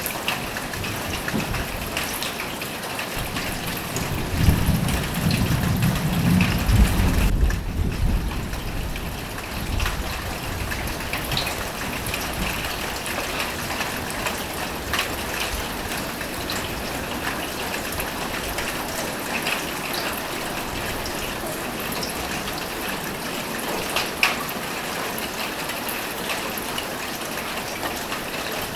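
Rain falling steadily on a roof, with scattered individual drops ticking through the hiss. A low rumble of thunder rolls in about four seconds in and fades by about eight seconds, the loudest sound here.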